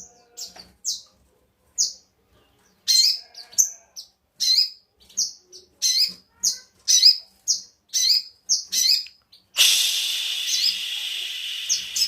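Sogon bird calling: a run of short, sharp, high chirps, then a harsh, continuous rasping call of about two and a half seconds near the end, before the chirps resume.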